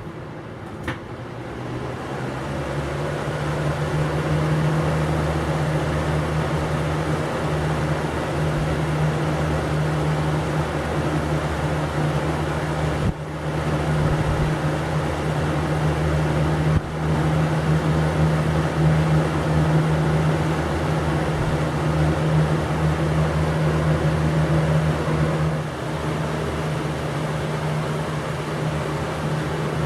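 Air King 9723C 20-inch box fan running: a click about a second in, then the blades come up to speed over a few seconds into a steady rush of air over a low motor hum. Two brief breaks come around the middle, and the level drops a little near the end.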